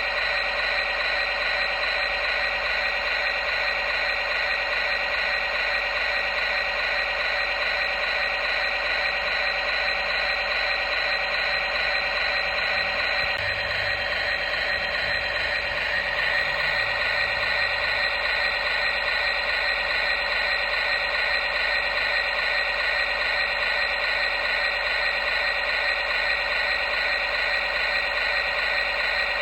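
Small electric motor and plastic gearbox of a toy construction vehicle whirring steadily, with a gear-like rattle.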